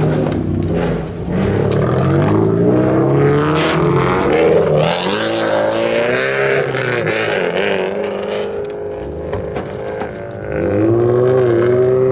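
Car engine revving hard as it pulls away. The pitch climbs over the first few seconds, sags, then climbs again steadily in the last second or two.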